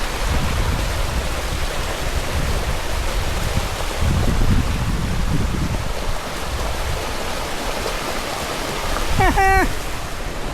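Steady rushing water of a rocky waterfall cascade, with heavier low rumbling at times. A short voiced exclamation comes near the end.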